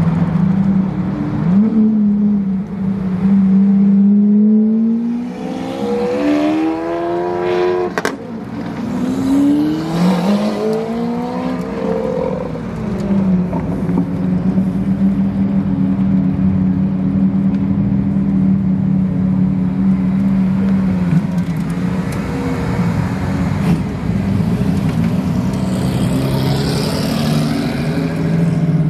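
Supercar engines, Lamborghini Aventador V12s among them, running as the cars pull away one after another: revs rise and fall in several blips in the first half, with a single sharp crack about eight seconds in. After that the engines settle into a steady low drone.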